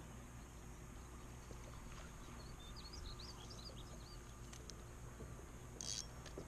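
Faint bird chirps, a quick run of short calls from about two and a half to four and a half seconds in, over a low steady background. A short burst of hiss comes near the end.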